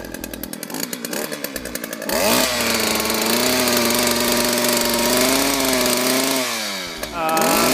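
Two-stroke chainsaw engine running: a rapid popping idle, then revved up at about two seconds and held at high revs. It eases off about six and a half seconds in and revs up again near the end.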